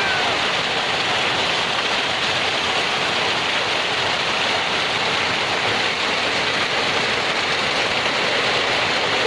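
Marble-sized hail and heavy rain coming down hard, a dense, steady hiss of countless small strikes that holds level throughout.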